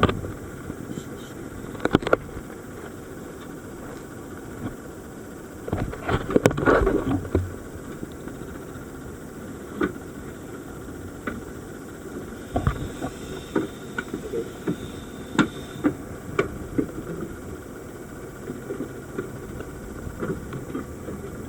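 Dive boat's engine idling steadily, with scattered knocks and clicks and a louder rush of noise about six seconds in.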